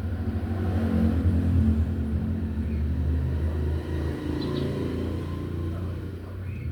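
A motor vehicle's low engine rumble passing by, swelling to its loudest about a second in and then slowly fading.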